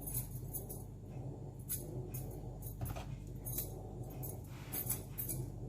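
Light metallic jingling and clinking in short irregular bursts, over a steady low hum.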